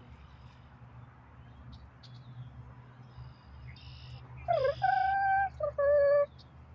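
A loud bird call about four and a half seconds in: a quick swooping note, then two clear held notes, the second lower than the first. Faint short chirps come earlier.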